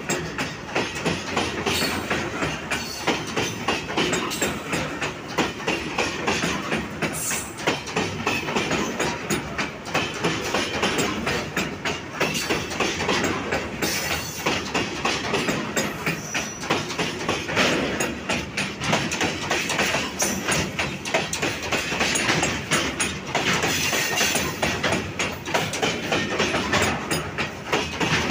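Loaded ZBKH coal hopper wagons of a long goods train passing close by at speed, their wheels clattering rapidly over the rail joints with a continuous rumble.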